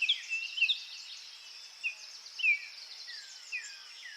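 Small songbirds chirping: many short, downward-sliding whistled notes, the loudest about half a second and two and a half seconds in, over a steady high hiss.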